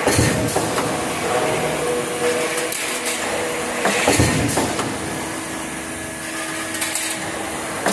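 Metal-working press machinery in a die shop: a steady mechanical hum broken by irregular knocks and clanks, a few seconds apart.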